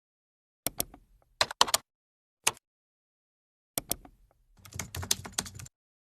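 Keyboard typing clicks in short bursts with dead silence between: a pair, a quick cluster of three, a single click, another pair, then a longer run of rapid keystrokes near the end.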